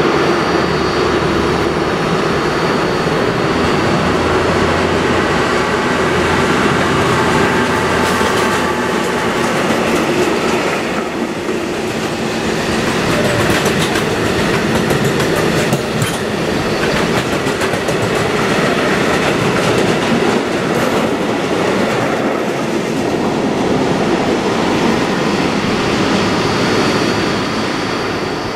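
A train rolling past at steady speed, its wheels running over the rails with scattered knocks. A low steady hum sounds under it for about the first nine seconds, then drops away.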